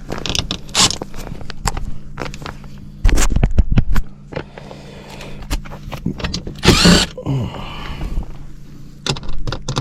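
Hands and tools working in a cramped wall cavity: scattered knocks, clicks and scrapes, with a loud rough stretch about three seconds in and another loud burst about seven seconds in, over a steady low hum.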